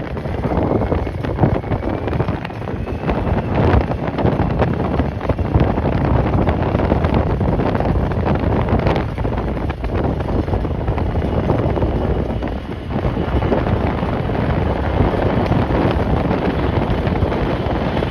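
Strong gusting wind buffeting the microphone, a loud rumbling noise that rises and falls with the gusts. A faint high whine sounds under it in the first few seconds.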